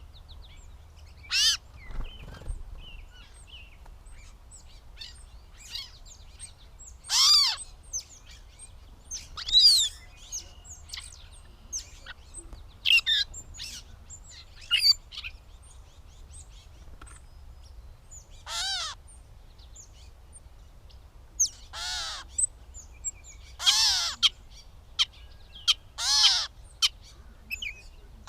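Gray catbird singing: a loose string of short, varied phrases separated by pauses of a second or more, a handful of them much louder than the rest.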